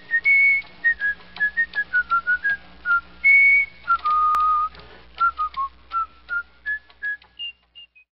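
A person whistling a tune: clear single notes, mostly short with a few held longer, stepping up and down in pitch and trailing off toward the end.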